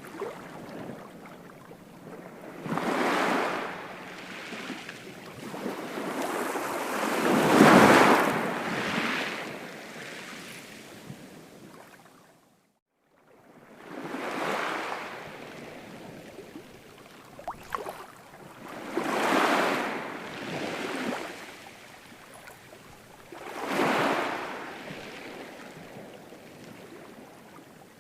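Ocean waves breaking and washing ashore, swelling and fading about every five seconds, the biggest wave about eight seconds in. The sound cuts out briefly around twelve seconds in, then the surf resumes.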